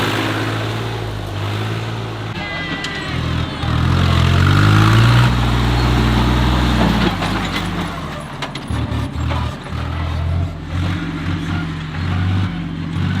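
Tractor engine running, its pitch rising about four seconds in, then a choppy, uneven beat in the second half.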